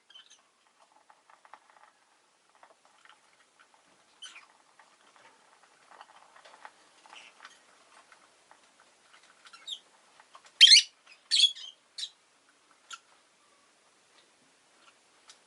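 Rosy-faced lovebird chattering softly in short squeaky notes, then giving two loud, shrill calls about two-thirds of the way through, followed by a couple of weaker ones.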